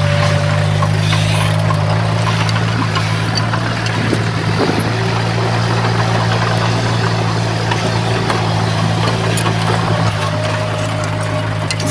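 Heavy construction-machine diesel engine running steadily at a constant speed, with scattered light clicks and clanks over it.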